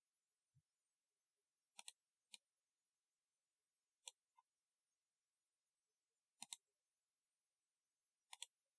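Typewriter-style mechanical keyboard keys pressed slowly, one or two at a time: sparse sharp clicks, several in quick pairs, a second or two apart.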